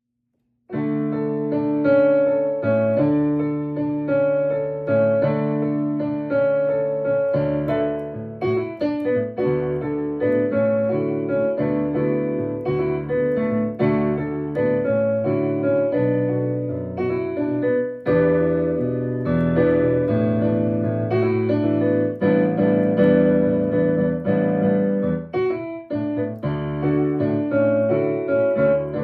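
Solo piano playing held chords with a melody above them, starting just under a second in.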